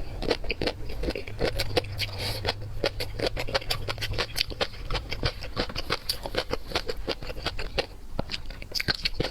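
Dense, irregular clicks and crackles of seafood being handled close to the microphone.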